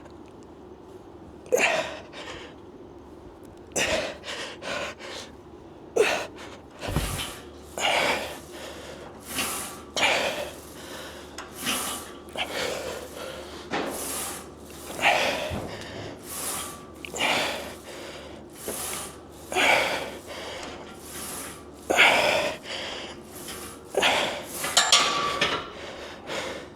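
A man breathing hard from heavy leg training: sharp, noisy breaths in and out about every second or two, with a dull bump about seven seconds in.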